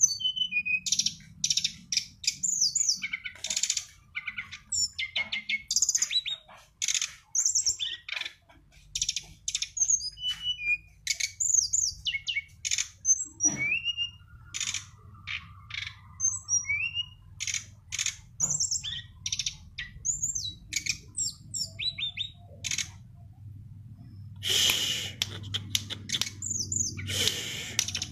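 A songbird singing a rapid, varied song of short high chirps, whistled glides and trills with brief pauses between phrases, turning louder and harsher twice near the end.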